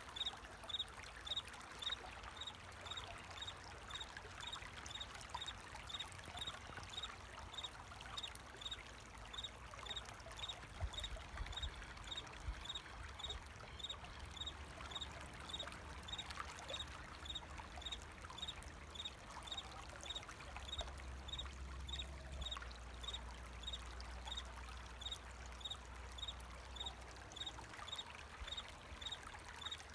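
Water running and trickling steadily, with a cricket chirping in an even rhythm of about two chirps a second over it.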